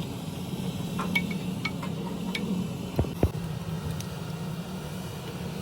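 A steady low mechanical hum, with a few light clicks and two sharp knocks close together about three seconds in.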